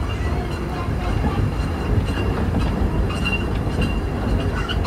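Running noise of a sightseeing train heard on board: a steady low rumble with light rattles and clicks from the wheels on the track.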